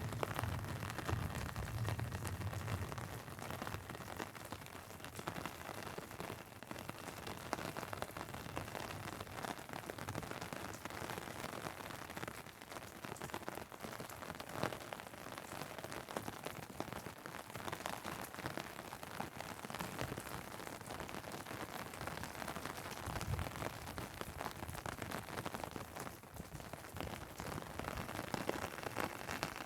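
Steady rain with a dense patter of drops on an umbrella and on wet pavement. A low rumble sits under it for the first few seconds.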